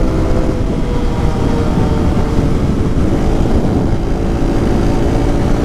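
Small motorcycle engine running under way at a fairly steady speed, its pitch dipping briefly and picking up again about halfway through, with wind buffeting the microphone.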